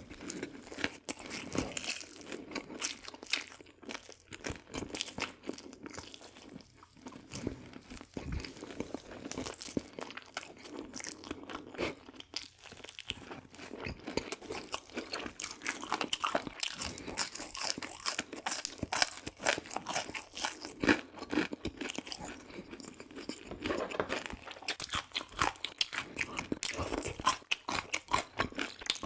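Close-miked chewing and biting of crispy fried food: a dense, irregular run of sharp crunches as the crust breaks between the teeth.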